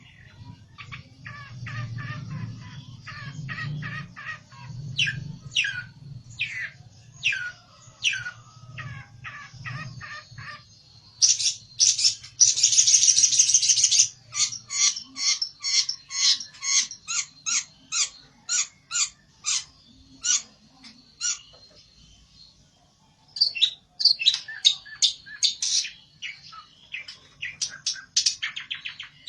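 Pelentet (a prinia) singing agitated, rapid strings of sharp downward-sweeping notes, with a dense buzzy trill partway through, in the aggressive song keepers play to provoke a rival. A low hum sits underneath during the first half.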